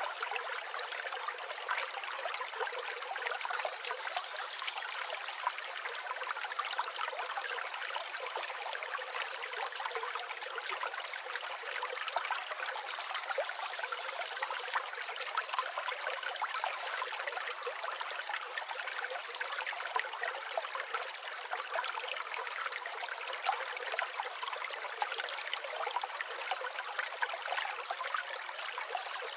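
Shallow stream water flowing and trickling steadily over stones, a bright splashing sound without low rumble. Two faint high bird chirps come through, a few seconds in and about halfway.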